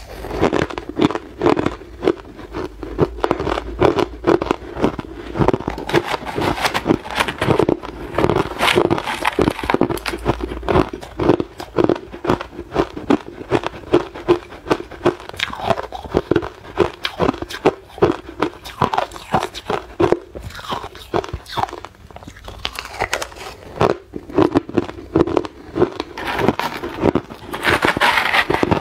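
Hard clear ice being bitten and chewed close to the microphone: a dense run of sharp crunches and cracks as the ice breaks between the teeth.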